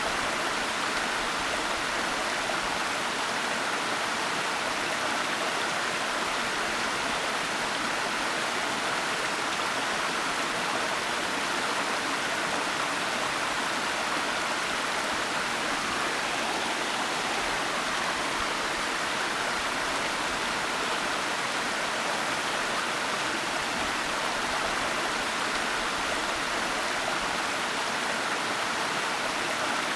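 Waterfall rushing steadily: an even, unbroken wash of falling water with no changes or separate events.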